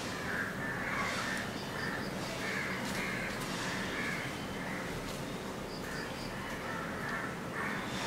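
Birds giving harsh, cawing calls in quick succession, about two a second, with faint high chirps now and then.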